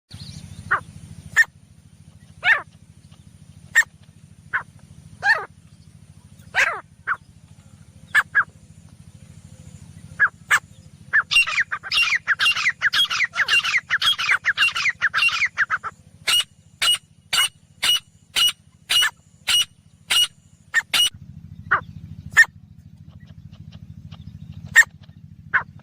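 Female grey francolin calling: scattered single rising notes, then a fast chattering run of notes for about five seconds midway, followed by sharp, evenly spaced notes about two a second. A steady low hum runs underneath, dropping out for a few seconds after the chattering.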